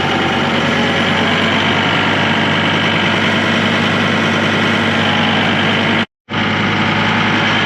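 Tractor engine running steadily. The sound cuts out completely for a moment about six seconds in, then resumes.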